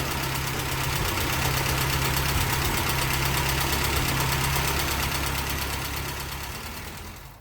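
Steady engine drone with a deep hum, fading away over the last second.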